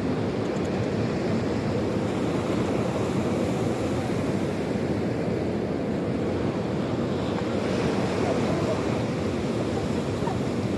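Sea surf: waves washing onto the shore in a steady, continuous rush.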